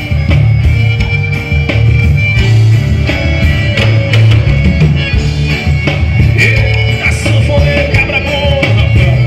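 Forró band music with a strong steady bass and a regular percussive beat.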